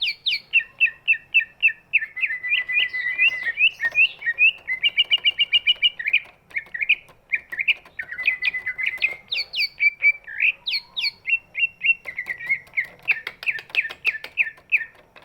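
Cucak ijo (greater green leafbird) singing one long, unbroken song of rapid chirps and short whistled notes, several a second, without a pause.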